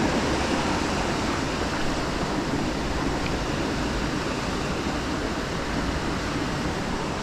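Steady rushing of a mountain stream, an even wash of water noise without pauses.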